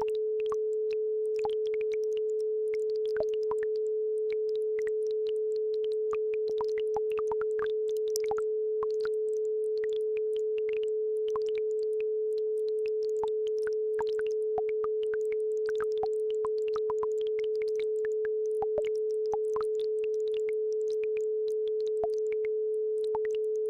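A steady pure tone at the 432 Hz base frequency of an isochronic-tone track holds evenly throughout. Faint babbling-brook water plinks and trickles lie underneath it.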